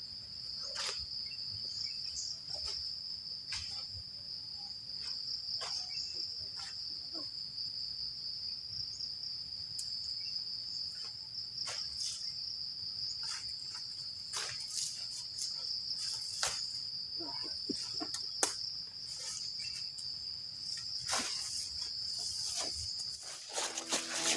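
Crickets calling in a steady, unbroken high-pitched drone, with scattered sharp clicks and snaps over it. The drone cuts off near the end.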